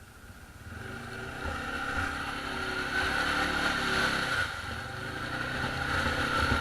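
ATV engine running, growing louder from about a second in, easing off briefly past the middle and then rising again.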